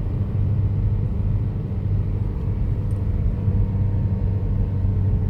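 Car interior drone while driving: steady low engine and road rumble with a faint steady hum.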